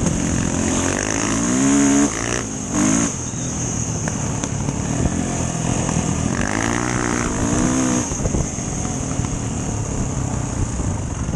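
Enduro dirt bike engine running and revving, the pitch climbing twice: once about a second in, with short throttle-offs after it, and again past the middle.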